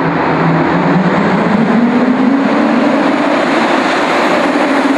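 Turbocharged VR6 engine of a tuned VW Golf R32 under acceleration, its note rising steadily, with loud exhaust and rushing noise, in a road tunnel.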